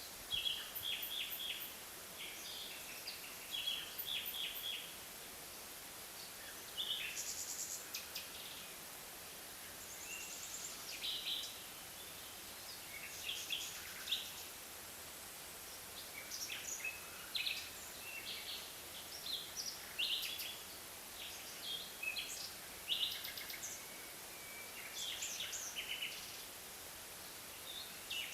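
Birds calling in a forest: short high chirps and quick trills from several birds, coming and going every second or two over a faint steady hiss.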